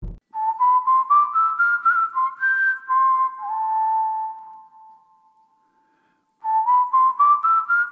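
Whistled tune: a short phrase of quick rising notes ending on a long held note that fades out, then the same phrase starting again about six and a half seconds in.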